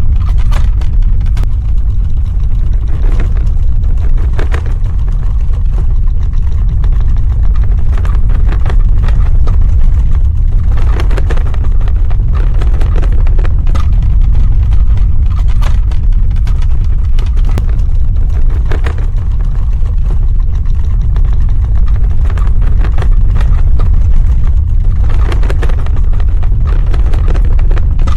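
Earthquake sound effect: a deep, continuous rumble with scattered crackling and rattling that swells and eases a few times.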